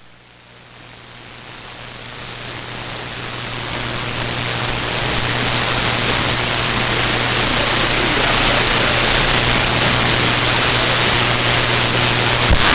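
CB radio receiver static: a steady hiss with a low hum under it, swelling up over the first several seconds and then holding.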